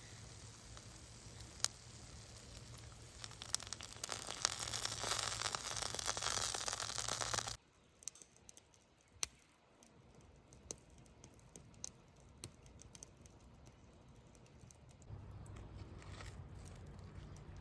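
Crinkling, tearing noise that builds up over a few seconds and stops abruptly, followed by quiet with a few small sharp clicks.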